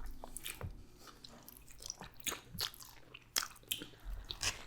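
A person chewing and biting into food, with a string of sharp, irregular crunches.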